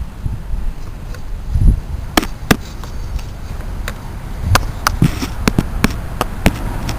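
Scattered sharp clicks and knocks, about eight of them in the second half, from hands and tools working on the Honda Silverwing scooter's plastic body panels, over a low rumble.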